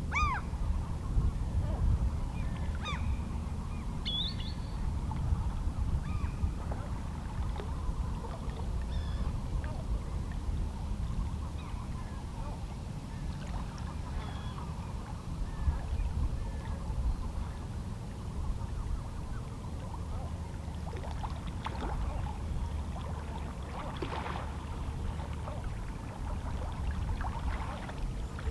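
Small sea waves lapping against shoreline rocks, a steady low wash of water with the odd splash. Seabirds call in the distance, mostly in the first several seconds.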